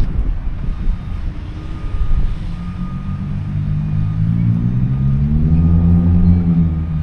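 Wind rumbling on the microphone, then a motor vehicle's engine hum that grows louder and rises in pitch over the last few seconds as it draws near.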